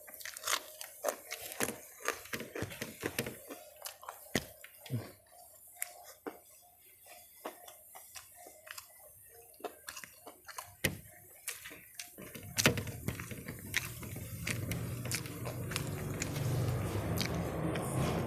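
Close-miked chewing and biting of crispy fried chicken and rice: irregular wet mouth clicks and crunches. About two-thirds of the way in, a steady low rumble starts and grows louder.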